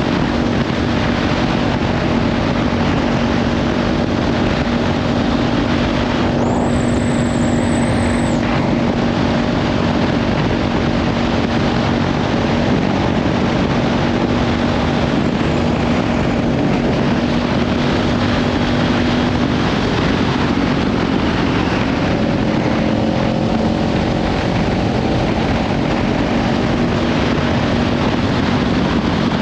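Heavy wind noise rushing over the microphone, covering a Kawasaki Ninja 500's parallel-twin engine with a Leovince slip-on exhaust, which holds a steady note at cruising speed.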